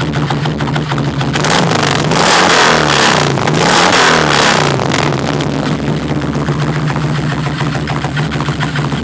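2001 Kawasaki Vulcan V-twin, warmed up, idling through its exhaust. It is revved twice, about a second and a half in, climbing and falling back each time, then settles to a steady idle.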